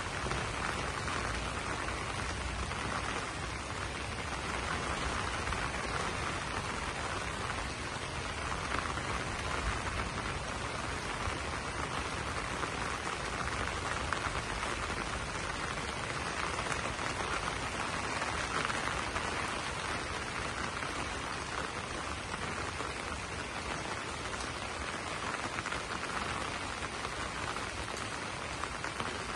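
Steady rain falling on banana leaves: a continuous, even hiss of drops that holds at the same level throughout.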